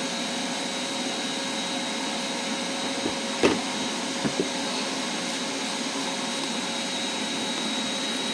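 Shop vac running steadily with a faint whine, pushing air through the exhaust system for a soapy-water leak test. A few short clicks sound about three to four and a half seconds in.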